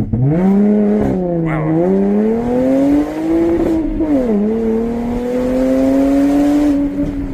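Jaguar F-Type's 340 hp supercharged V6 under full-throttle acceleration from a standstill, breathing through a valveless stainless-steel exhaust. The engine note rises, drops at an upshift about a second and a half in, rises again, drops at a second upshift about four seconds in, then climbs more slowly.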